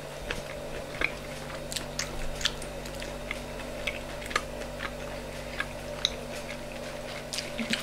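A person chewing a mouthful of food, with scattered soft clicks at irregular intervals over a steady low hum.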